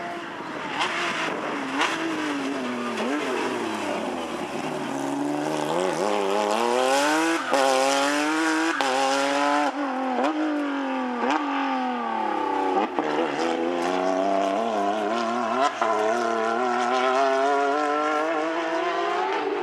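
Porsche rally car's flat-six engine at full throttle, the pitch climbing through several quick upshifts with a sharp drop at each change, then falling off and building again, with a few sharp pops.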